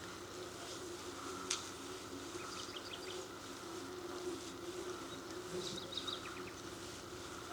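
Birds chirping in short high calls, around three seconds in and again near six seconds, over a steady hum; a single sharp click about a second and a half in.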